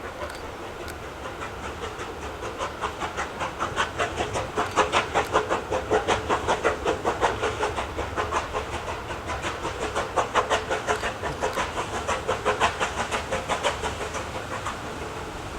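Steam locomotive running past with a rapid, even beat of exhaust, about five or six beats a second, swelling to loudest in the middle and easing off near the end.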